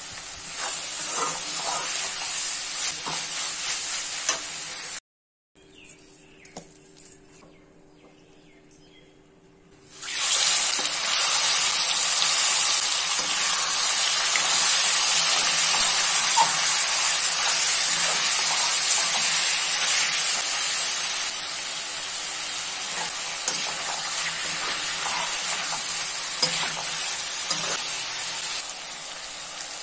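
Onions and tomatoes sizzling in hot oil in a kadai as a slotted spoon stirs and scrapes them. After a few seconds of only faint sounds, raw chicken pieces sizzle loudly in the oil from about ten seconds in, with spoon scrapes, easing a little later on.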